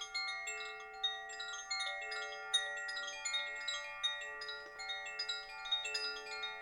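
Wind chimes ringing softly: many scattered strikes, their bright overlapping tones hanging on and blending.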